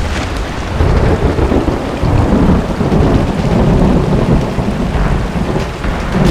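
Steady heavy rain with a long roll of thunder that rises about a second in and rumbles on for several seconds.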